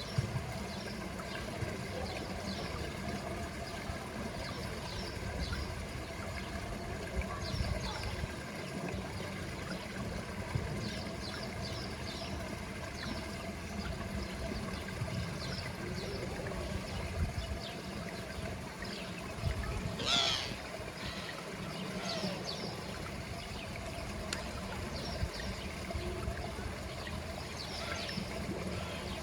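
Water trickling steadily at a pool, with short high chirps scattered throughout and one louder sweeping call about twenty seconds in.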